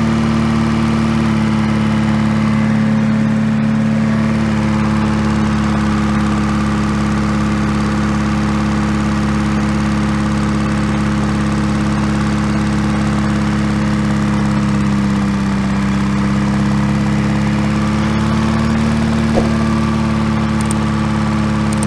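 GM 2-71 two-stroke, two-cylinder diesel engine running steadily at an even speed.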